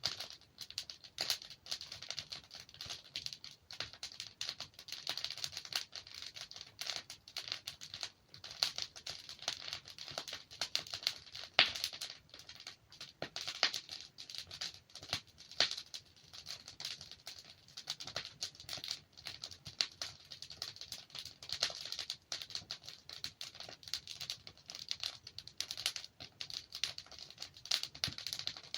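Wood fire in a fireplace crackling steadily with dense small snaps, and a couple of louder pops from the burning logs about a third and halfway in.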